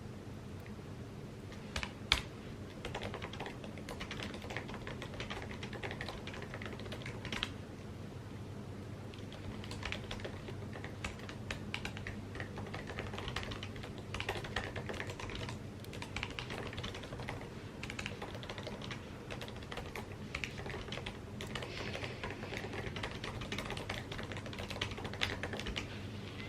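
Typing on an Apple computer keyboard: quick runs of light key clicks with short pauses, and one sharper, louder click about two seconds in.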